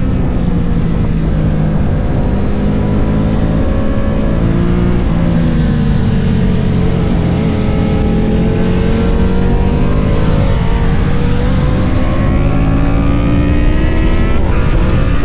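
Motorcycle engines running hard at speed. The pitch sags and recovers a few seconds in, then climbs steadily toward the end as they accelerate.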